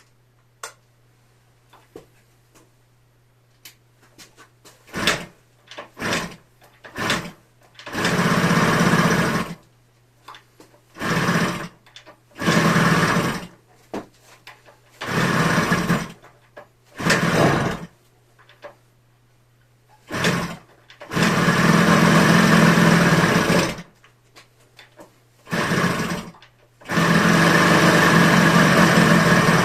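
Yamaha HS1's 90cc two-stroke twin (HX90 engine) being started: it fires and runs for a second or two, then dies, again and again, and near the end catches and keeps running. The running engine has a rattly 'shara-shara' mechanical noise, made more prominent by the small room.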